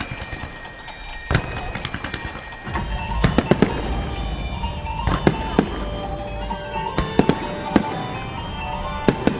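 Fireworks bursting with sharp bangs, a cluster in quick succession about three seconds in and more scattered after, over music played for the show.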